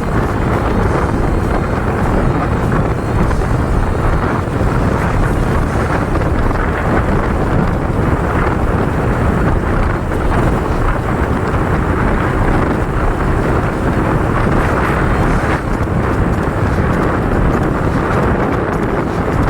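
Heavy wind noise on the microphone over a motorcycle engine running steadily while riding.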